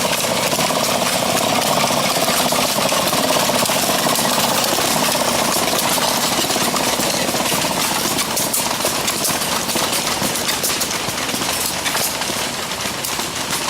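Small steam engines running with a fast, continuous mechanical clatter. Sharper ticks come through in the second half.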